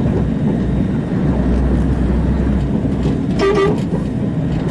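Steady engine and road noise inside the cab of a Scania 144L 530 truck with its V8 diesel running, heavy in the lowest rumble. A short pitched tone sounds once, about three and a half seconds in.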